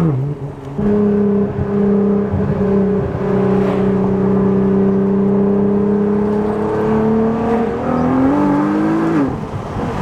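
Straight-piped Nissan GT-R R35's 3.8-litre twin-turbo V6 on the move. Its revs drop sharply at the start, then it holds a steady, slowly climbing note. About eight seconds in it briefly revs up and is let off just after nine seconds.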